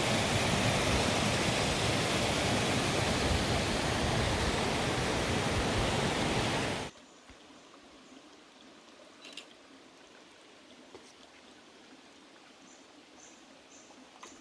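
A waterfall rushing loudly and steadily, cutting off abruptly about seven seconds in to a quiet outdoor background with a few faint clicks and a faint high chirping repeated near the end.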